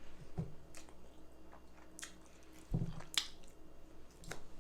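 Close-up chewing and wet mouth smacks while eating, with a few sharp clicks spread through; a low thump comes shortly before a sharp click about three seconds in.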